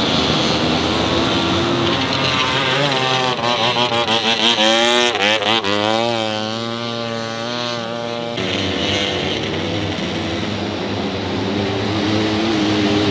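Vintage motorbike engines running in a race, one bike close by revving up and down with a wavering pitch for several seconds before its sound drops away suddenly about eight seconds in; other engines carry on in the background.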